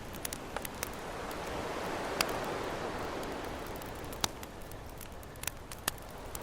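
Campfire crackling with scattered sharp pops, the loudest about two seconds in and another near four seconds, over a steady wash of ocean waves that swells and eases.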